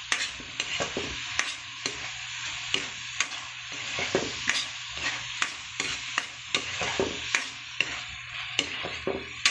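Chicken pieces sizzling in hot oil in a wok while being sautéed, stirred and turned with a metal spatula. The spatula scrapes and knocks against the pan about once or twice a second over the steady sizzle.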